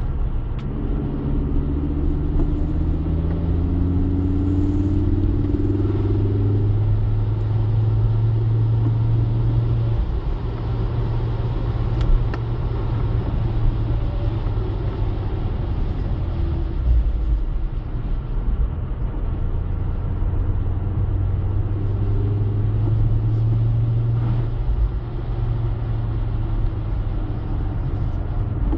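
Ford Focus ST225's turbocharged five-cylinder engine heard from inside the cabin while driving, its note rising as the car accelerates over the first several seconds, then holding steady and dropping in steps about ten seconds in and again near the end, over tyre noise on a wet road.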